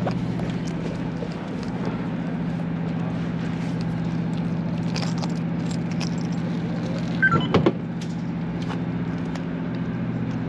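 A steady low mechanical hum, with a brief cluster of clatters about seven and a half seconds in.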